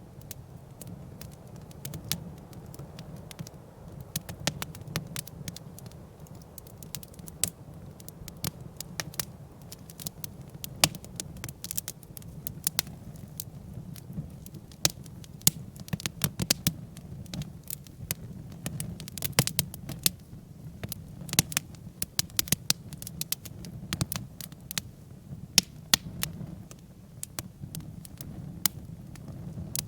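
Wood campfire, stacked log-cabin style, crackling with frequent sharp, irregular pops over a low steady rumble.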